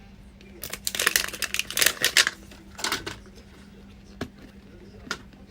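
Plastic packaging of a Mini Brands capsule crinkling and tearing as it is handled and opened, in quick clustered bursts, followed by a couple of light clicks.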